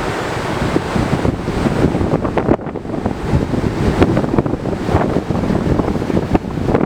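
Wind buffeting the microphone in loud, uneven gusts, over a wash of sea noise.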